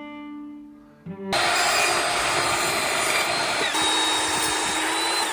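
Power saw running and cutting wood: a loud steady whine over a coarse noise that starts about a second in, its pitch dropping a little midway as the blade takes load. Background music fades out just before it starts.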